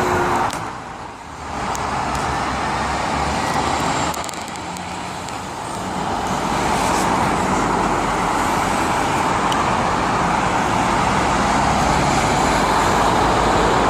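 Road traffic passing, a rush of tyre and engine noise with a low rumble beneath. It dips briefly about a second in, then swells into a steady, louder rush from about six seconds on.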